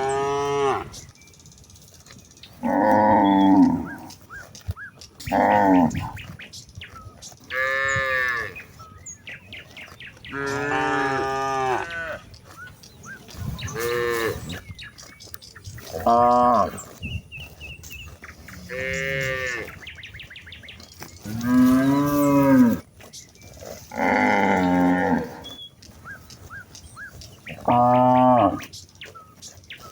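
Cattle mooing over and over: about eleven drawn-out calls, each lasting roughly a second, follow one another with short pauses between them.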